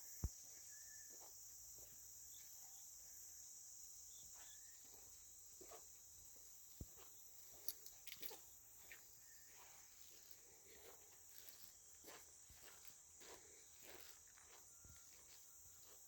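Faint, steady, high-pitched chirring of crickets, with a few soft scattered clicks and footstep-like knocks.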